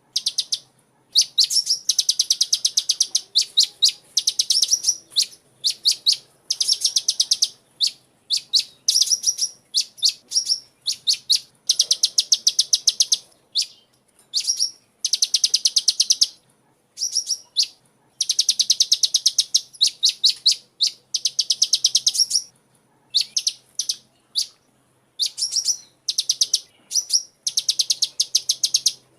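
Sunbird singing: rapid trills of high, thin notes in bursts of one to two seconds, repeated over and over with short pauses between them.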